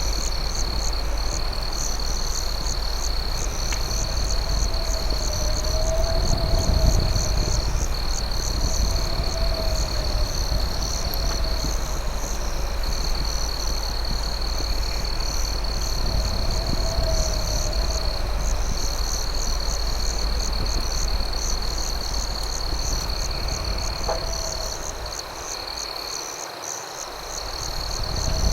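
Night insect chorus of crickets: a steady high trill with a faster pulsing chirp above it, and a lower wavering call repeating every few seconds. Under it runs the low rumble of a campfire with an occasional faint crackle; the rumble drops away briefly near the end.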